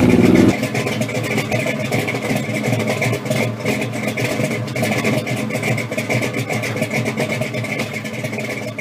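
A car engine idling with an uneven, choppy beat and a steady high tone over it. It comes in after a louder engine sound cuts off abruptly about half a second in.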